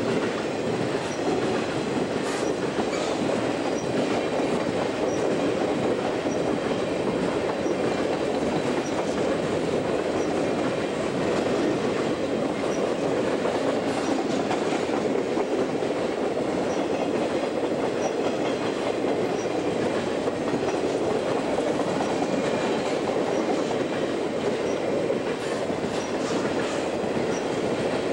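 Conrail RoadRailer train, Triple Crown highway trailers riding directly on rail bogies, rolling steadily past close by: an even rumble of wheels on rail with faint clicking.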